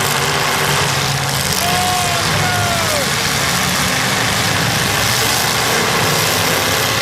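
Demolition derby car engines running loud and steady. A few short whistle-like tones glide about two to three seconds in, the last ones falling.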